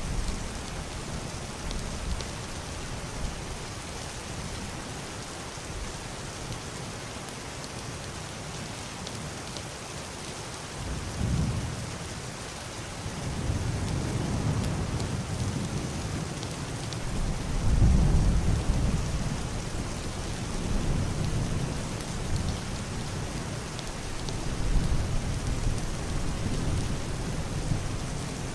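Heavy rain drumming steadily on a wooden roof and glass window, with muffled distant thunder. A low rumble rolls in about a third of the way through, is strongest around the middle, and keeps rolling in waves until near the end.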